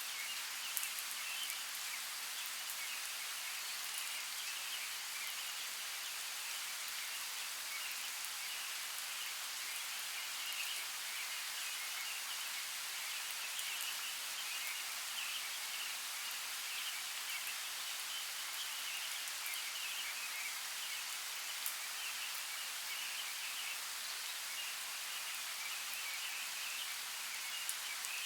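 Steady hiss of a flowing creek, with a few faint ticks.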